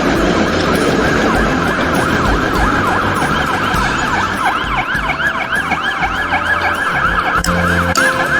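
Ambulance siren wailing in a fast, repeating rise and fall of pitch.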